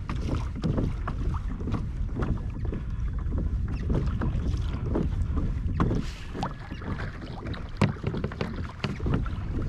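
Water sloshing and splashing against a fishing kayak's hull on open sea, with wind rumbling on the microphone and a few irregular small splashes and knocks.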